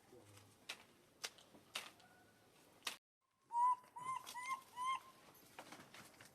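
Baby monkey giving a quick run of short, arched coo calls about four seconds in, after a few sharp clicks.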